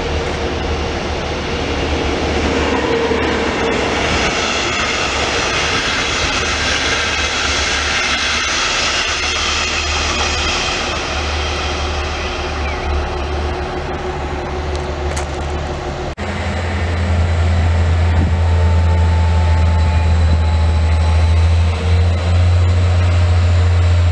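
A double-deck regional train rolls past, its wheel-and-rail noise swelling and fading over several seconds. After a sudden cut about two-thirds in, a steady low drone from the diesel engine of a Stadler GTW railcar takes over and is the loudest sound.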